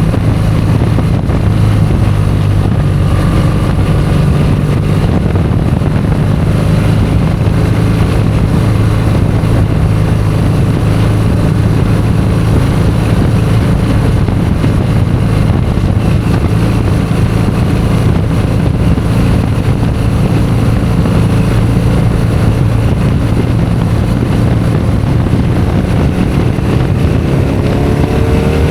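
Motorcycle engine running steadily at cruising revs, with wind rush over the microphone. Near the end the engine note rises as the bike accelerates.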